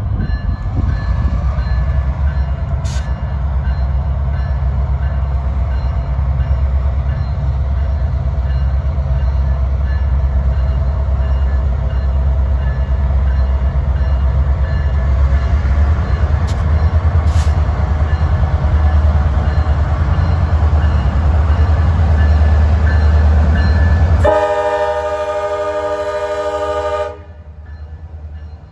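Diesel locomotives of a GP38-2 consist running with a heavy low rumble as the train gets under way, then one horn blast of about three seconds, about 24 seconds in, after which it goes much quieter.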